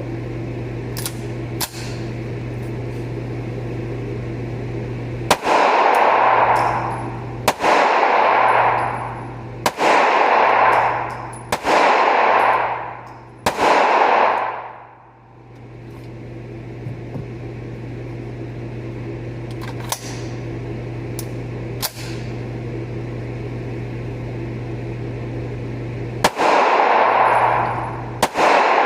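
CZ pistol firing slow, aimed single shots: five shots about two seconds apart, a pause with two fainter shots, then two more loud shots near the end, each with a ringing echo. A steady low hum runs underneath.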